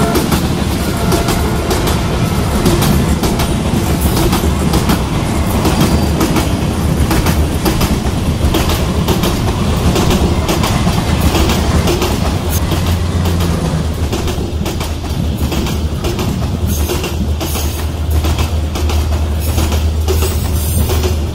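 Train running on the rails, its wheels clattering over the rail joints in many quick clicks above a steady rumble. The low rumble grows heavier in the second half.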